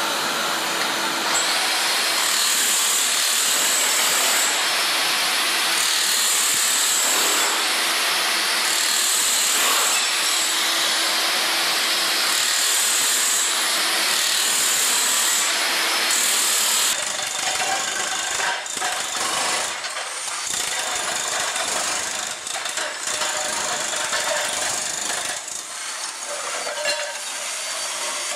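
Floor-removal power tools working. For about the first 17 seconds a machine runs steadily with a hum and high hissing stretches that come and go every couple of seconds. After a cut it changes to more uneven chipping and scraping with many short knocks.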